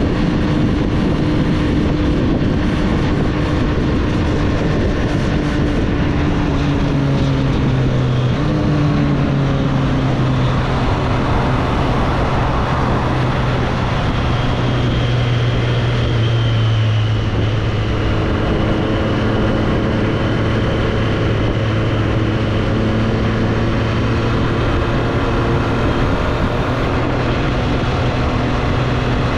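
Triumph Street Triple's three-cylinder engine under way, its note easing down over the first several seconds, then jumping in pitch about eight seconds in as a gear changes, and running fairly steadily after that. Wind and road noise rush behind it.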